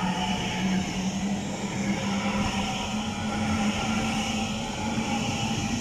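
Class 800 IET train pulling away from the platform, a steady low hum that rises slowly in pitch as it gathers speed, over the rumble of the train.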